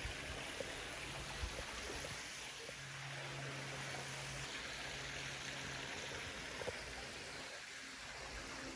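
Faint, steady hiss of outdoor background noise, with a few light ticks.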